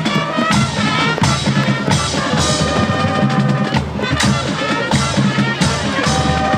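High school marching band playing: brass holding sustained chords over a steady beat of marching drums and bass drums.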